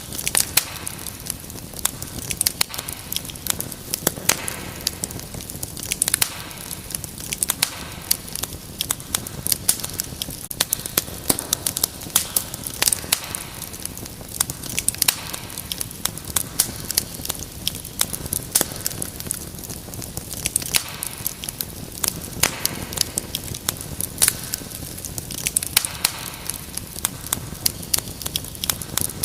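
Wood fire in a fireplace crackling: many sharp irregular pops and snaps over a steady hiss and low rumble of the flames.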